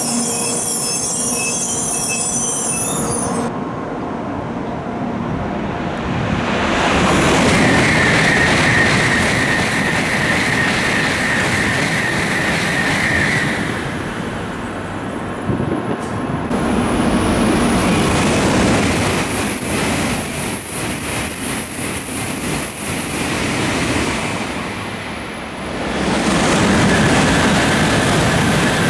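Tokaido Shinkansen train running along the platform, a loud rush of wheel and air noise. The rush swells about seven seconds in, dips briefly near the end and swells again. A steady high whine runs for several seconds early in the loud part.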